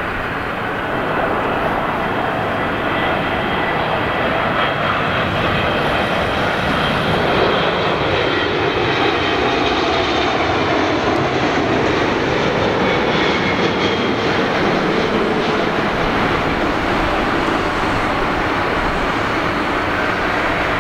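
Jet airliner's engines passing close on final approach to land: a loud, steady jet noise with whining tones that slide down in pitch as the plane goes by.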